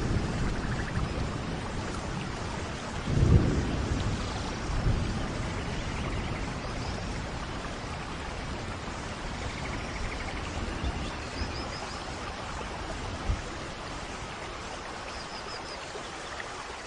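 Thunderstorm in a rainforest: steady heavy rain with rolls of low thunder, the loudest about three seconds in.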